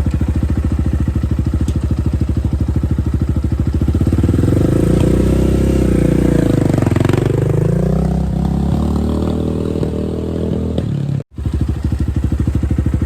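10ten 250RX dirt bike's single-cylinder four-stroke engine idling, then revved as the bike pulls away in first gear, the note rising and falling from about four seconds in before settling back toward idle. Near the end the sound cuts out for an instant, then the idle resumes.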